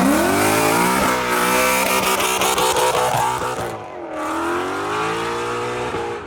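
Ford Mustang engine revved hard and held high while the rear tyres spin with a hissing squeal in a burnout. The revs drop just before four seconds in and the hiss cuts off, then the engine climbs again.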